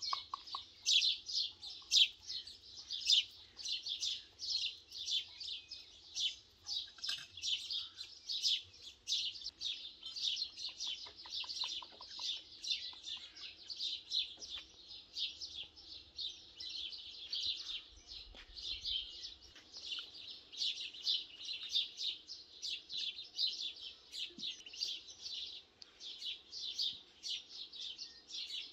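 Small birds chirping continuously, a dense run of short high chirps several a second with no pause.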